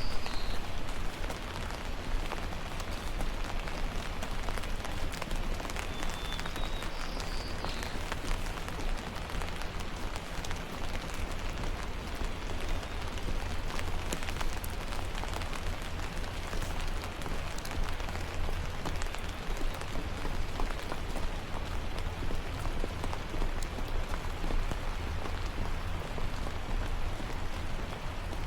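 Steady rain falling, with many small drops pattering close by over a constant low rumble. Two brief high chirps come through, one at the start and one about six seconds in.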